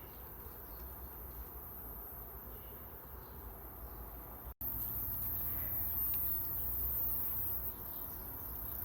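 Steady background hiss with a thin high-pitched band and no distinct events. It drops out for an instant about halfway through and comes back a little louder, as at an edit.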